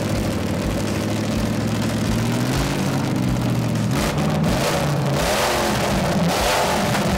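Factory 5 Daytona coupe's Ford V8, just started for the first time, idling steadily. From about four seconds in it is revved several times, its pitch rising and falling.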